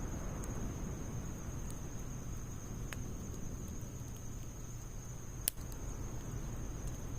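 Wood fire of split logs and pine needles burning in a Snow Peak fire stand: a low rumble of flame with a few light crackles and one sharp pop about five and a half seconds in.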